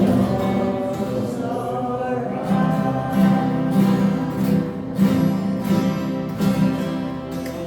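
Acoustic guitar group strumming a song with voices singing along together in sustained notes over a steady strummed beat.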